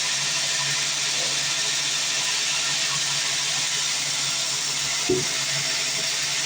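Sawmill bandsaw running with a steady hiss, with one short knock about five seconds in.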